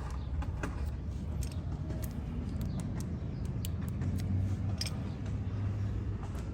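Scattered light clicks and taps of small metal brake caliper parts being handled and cleaned, over a steady low hum.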